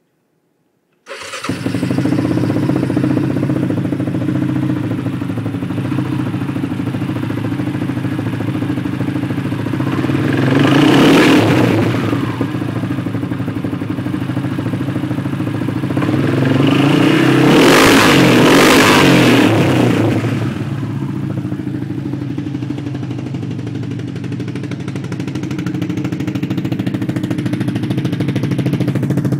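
Yamaha Rhino 700's single-cylinder engine, breathing through a dual Muzzy exhaust with a stage 1 Hotcam and MSD ignition, idling. It is revved twice: briefly about ten seconds in, and for longer a few seconds later, before dropping back to idle.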